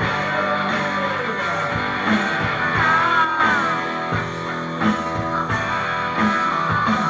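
Rock band playing with electric guitar and drums, a steady beat under strummed chords, with a note bending in pitch about three seconds in.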